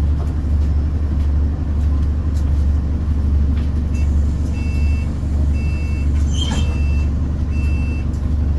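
Bus engine running with a steady low rumble, heard from inside the bus. About halfway through, a string of about five high electronic beeps starts, roughly one a second.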